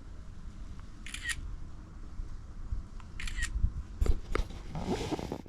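Camera shutter sounding twice, about two seconds apart, as photos are taken. A couple of short knocks and a rustle follow near the end.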